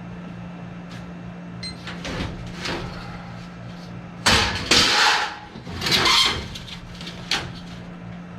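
Work noises from handling parts: a few light knocks, then two loud scraping rushes a little past the middle and a sharp knock near the end, over a steady low hum.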